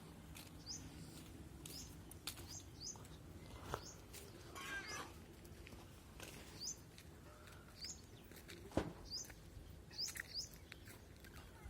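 Small birds giving short, high chirps at irregular intervals, with a few sharp knocks, the loudest about nine seconds in.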